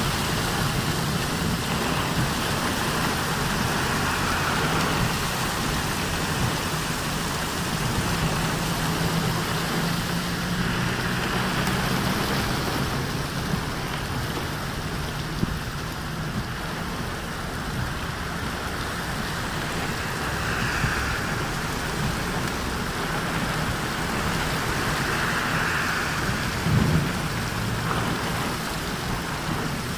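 Steady rain falling, with a low rumble of thunder underneath and a short, louder thump near the end.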